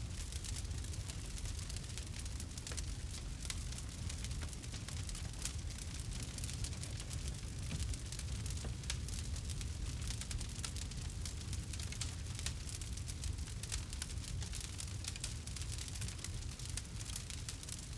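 Campfire burning, wood crackling with a dense run of small sharp pops over a steady low rumble.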